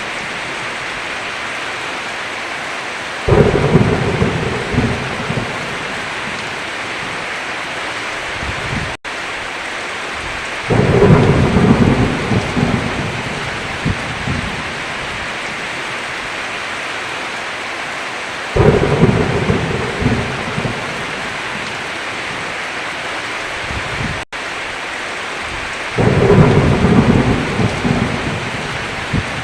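Steady heavy rain with four rolls of thunder, each starting suddenly and dying away over a few seconds, about every seven or eight seconds. The sound cuts out for an instant twice.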